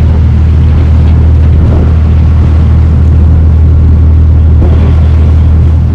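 Boat engine running steadily under way, a loud, even low drone.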